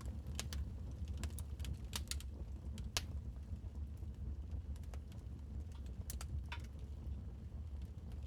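Wood fire crackling in a fireplace: irregular sharp pops and snaps, one louder snap about three seconds in, over a steady low rumble.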